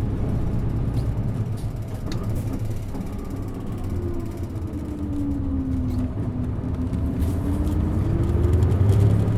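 Isuzu Erga city bus running, heard from on board: a steady low rumble, with a whine that drops in pitch about four seconds in and then climbs again as the bus speeds up, growing louder near the end.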